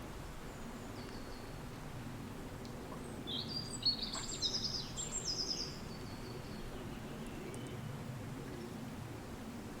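Steady low rush of wind, with a songbird singing a short phrase of quick high notes about three seconds in, lasting about three seconds.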